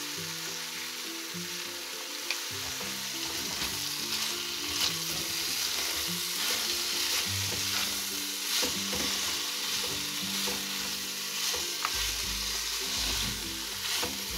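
Cubed pumpkin sizzling in hot oil in a non-stick kadhai while being stirred and tossed with a silicone spatula, with a steady sizzle and occasional scrapes and knocks of the spatula against the pan.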